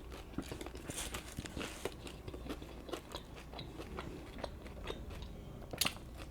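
A person biting into and chewing a Subway sub sandwich close to the microphone: soft, irregular wet crunches and small mouth clicks, with one louder crunch near the end.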